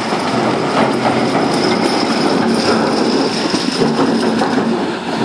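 Heavy quarry machinery running with a dense, continuous metallic rattle and clatter under a steady hum.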